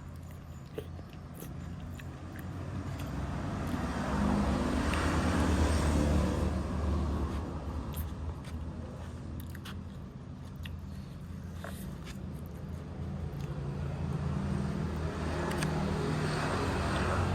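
Motor vehicles passing on a road: a low engine hum that swells and fades twice, loudest about five seconds in and again near the end, with a few faint clicks.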